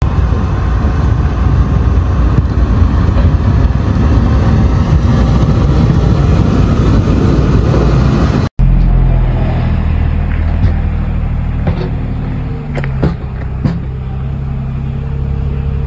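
A motor vehicle's engine: first a loud, rough rumble, then after an abrupt cut a steadier engine drone with a few sharp clicks.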